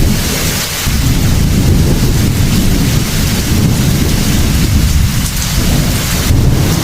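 Heavy rain falling steadily under continuous low rolling thunder.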